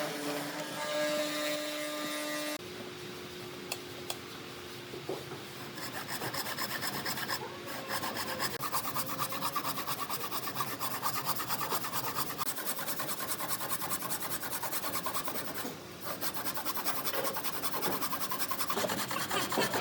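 A hand tool rasping back and forth on wood in quick repeated strokes, with a brief pause near the end; background music stops about two and a half seconds in.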